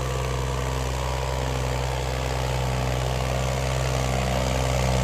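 Diesel tractor engine running steadily, growing slightly louder toward the end.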